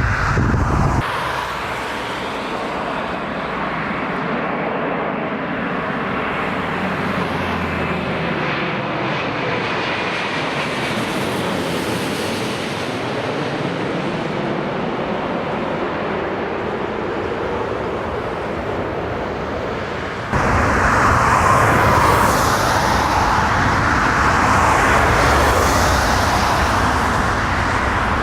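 Jet airliner engines running at high power as an aircraft passes close by. About twenty seconds in, the sound jumps suddenly to a louder, heavier stretch of engine noise.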